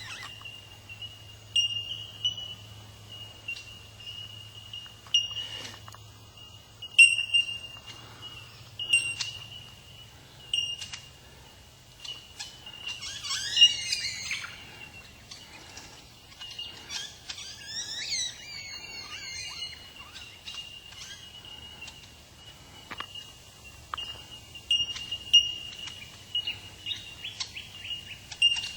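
A chorus of bellbirds giving repeated bell-like single notes at one high pitch, overlapping into a near-continuous tinkling, with sharper, louder pings every second or two. Around the middle, a bird sings two bursts of quick warbling notes.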